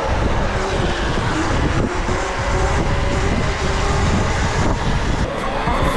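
Wind rushing and buffeting over the microphone while riding a bike at speed, with road and motor noise under it.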